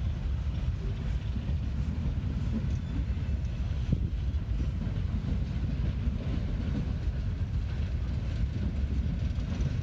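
Slow freight train's cars rolling past, a steady low rumble, with one brief knock about four seconds in.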